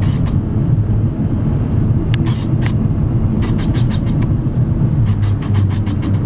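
Car driving on the road, heard from inside the cabin: a steady low rumble of engine and tyres, with a few short runs of quick light clicks.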